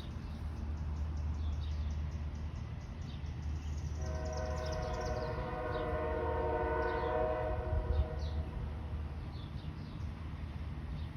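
A long, steady horn blast, several tones sounding together, held for about five seconds from about four seconds in, over a steady low rumble.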